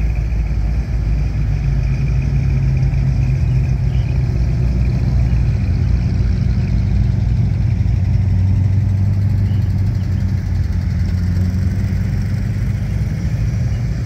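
Engines of classic and sports cars running as they drive slowly past one after another, a steady low engine note that shifts slightly in pitch as different cars go by.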